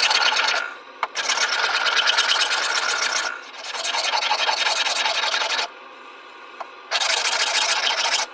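A tool abrading wood in four runs of a second or two each, with short pauses between: a dense, rapid scratching with a faint steady whine under it.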